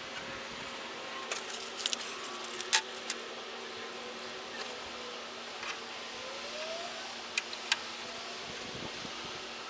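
Scattered sharp clicks and light clinks of hard parts being handled, over a steady hiss and low hum, with a short rising squeak about two-thirds of the way through.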